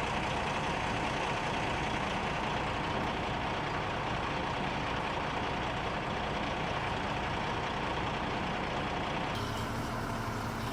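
Steady motor vehicle noise, an even running sound with a faint whine, with more hiss coming in near the end.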